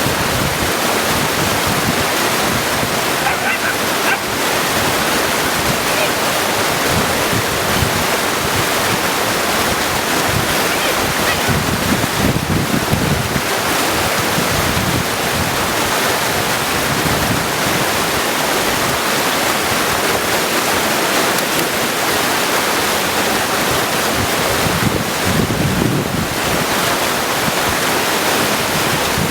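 Mountain creek rushing steadily over stones, a loud, even water noise, with low swells about twelve seconds in and again near the end.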